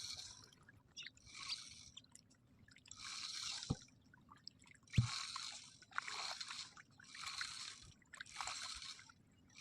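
Birds bathing in shallow water, splashing in short bursts about once a second, about seven splashes in all, with a couple of sharp knocks midway.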